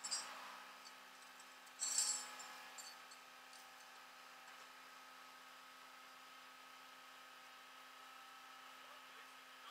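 Two short metallic clinks or jangles, one at the start and a louder one about two seconds in, over a faint steady hum with a few constant tones.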